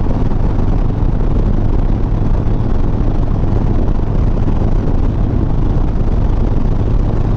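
Harley-Davidson Sport Glide's V-twin engine running steadily at cruising speed, with an even rush of wind and road noise over it.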